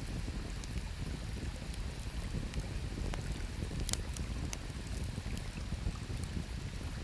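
Wood campfire crackling, with a few scattered sharp pops (the loudest about four seconds in), over a steady low rushing of river water.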